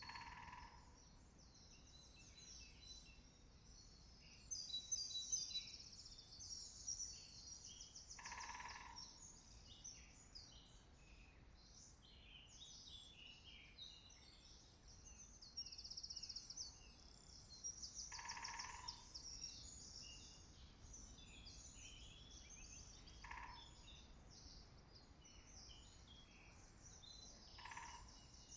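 Faint woodland bird chorus of many overlapping high songs and chirps. Five times a short, lower burst stands out, most likely a woodpecker drumming on a tree: once at the start, then about 8 and 18 seconds in, and twice near the end.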